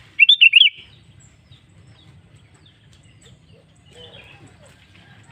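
Sooty-headed bulbul (kutilang) singing: a loud, quick phrase of four or five notes lasting about half a second, then only faint calls until the same phrase starts again at the end.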